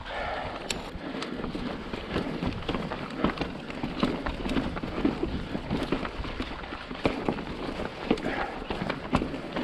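Mountain bike rolling over bumpy slickrock: tyre rumble with frequent irregular knocks and rattles from the bike.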